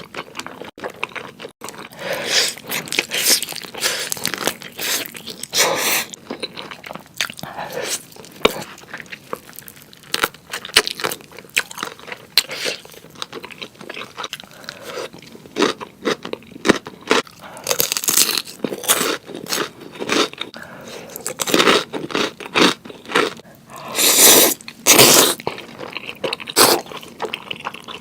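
Close-up eating sounds of spicy noodles and grilled chicken: a steady run of crunchy bites and wet chewing, with a few longer, louder bursts along the way.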